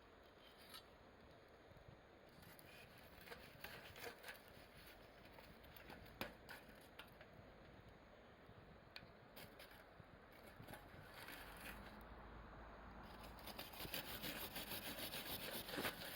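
Faint campfire crackling: scattered sharp pops and clicks of burning wood, turning into a dense run of rapid crackles about three seconds before the end.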